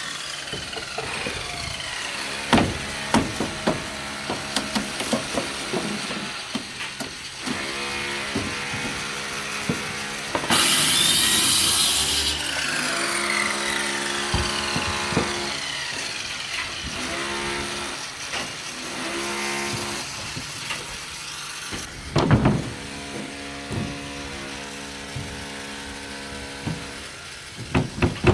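Construction-site work sounds: scattered knocks and clatter of tools on rebar and formwork over a steady machine hum, with a loud burst of a power tool lasting about two seconds, about ten seconds in.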